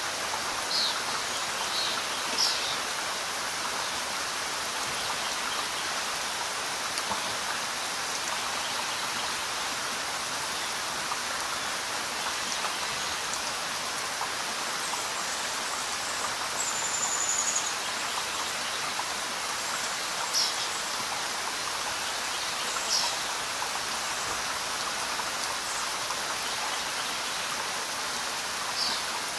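Steady rain falling as an even hiss of many drops, with a few short, high chirps scattered through it.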